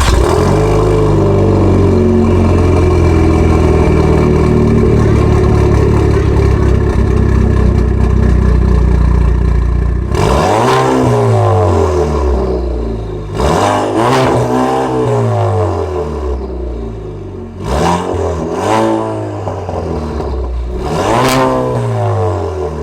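A car engine runs at a steady speed for about ten seconds and is then revved several times, its pitch rising and falling with each blip of the throttle.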